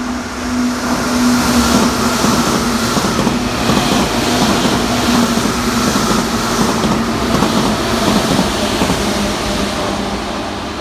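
Tokyu 8500-series electric train passing through at speed, its wheels clacking again and again over a rail joint under a steady low hum. It builds to full loudness in the first two seconds and fades near the end as the train moves away.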